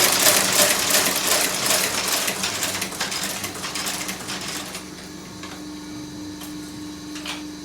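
Shoe outsole stitching machine running with a rapid mechanical clatter of stitching strokes. The clatter thins out and stops about five seconds in, leaving the steady hum of the running motor and a few single clicks.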